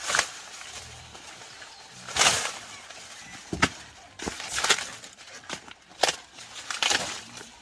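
Dry corn plants rustling, with sharp snapping crackles in short irregular bursts, about six of them, as ears are picked.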